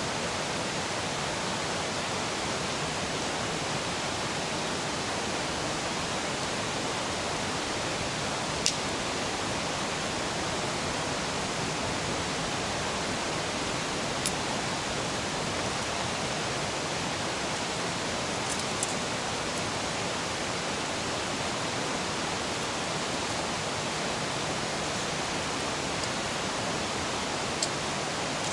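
A river rushing steadily, an even hiss-like roar of flowing water. A few short sharp crackles stand out over it, typical of a wood campfire.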